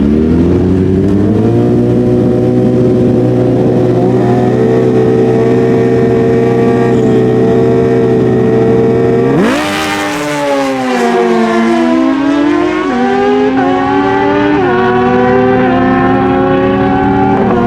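Naturally aspirated stock drag bikes revving up and holding steady high revs on the starting line, then launching about nine seconds in. The engine pitch sweeps, dips and climbs in sudden steps as the bikes run down the strip.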